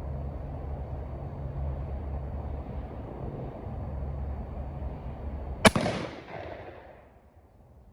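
A steady low hum, then about two thirds of the way in a single shot from a rifled percussion-cap muzzleloading rifle (a Traditions Kentucky rifle) loaded with birdshot, its report rumbling away over about a second.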